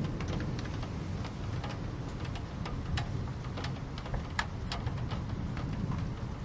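Steady rain with individual drops ticking sharply on a hard surface, a few louder drips past the middle, over a low, even rumble.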